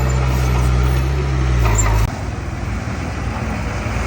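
Heavy diesel earthmoving machinery running with a steady low drone. The drone cuts off suddenly about halfway through, leaving a quieter, rougher engine rumble.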